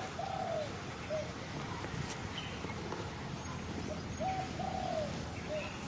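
A bird cooing, in two short phrases of a few soft coo notes, one at the start and one about four seconds later, over a steady low background hum.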